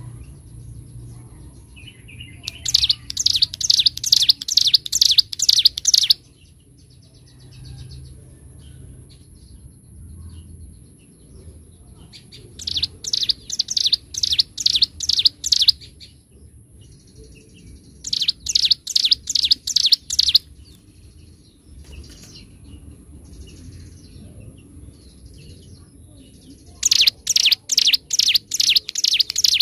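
Ciblek gunung, a prinia, singing in bursts of fast, repeated high chirps, about three a second. There are four bursts of a few seconds each, separated by pauses.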